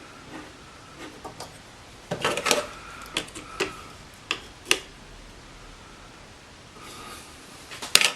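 Clicks and knocks of metal parts as a clamped knife is handled on a sharpening machine's jig and guide rod while the bevel angle is set, about seven separate knocks with short gaps between them.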